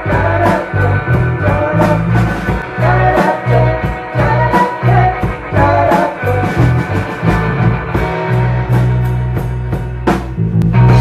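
Live rock band playing an instrumental passage: drums with regular cymbal hits over a steady bass line, with guitar-like melodic lines. A loud hit comes near the end, and a chord is left ringing.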